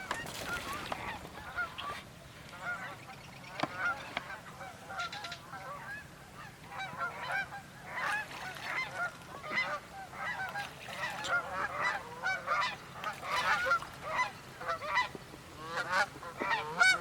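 A flock of waterfowl calling on the marsh: many short, overlapping honking calls that grow busier about halfway through.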